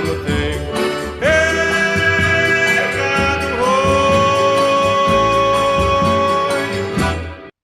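A song in which a voice holds long, drawn-out wordless notes, sliding up into each one, over instrumental backing. The music cuts off abruptly near the end.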